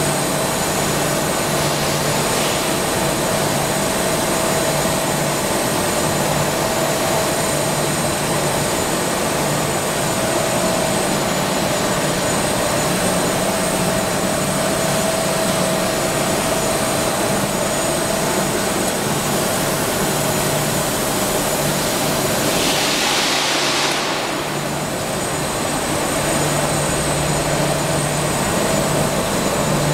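Industrial roll-fabric washing line running steadily: a constant mechanical hum with a steady whine over it. About 23 seconds in, a brief hiss rises and fades.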